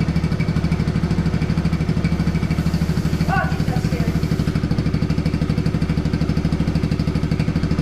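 Kawasaki KLX110 dirt bike's small single-cylinder four-stroke engine idling steadily with an even pulse, being run to warm the oil so it will drain.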